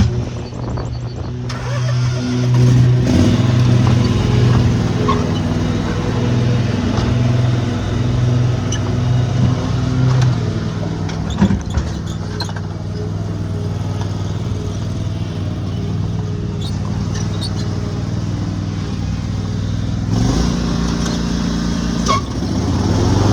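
Gasoline engine running steadily, rising in pitch about twenty seconds in as it revs up.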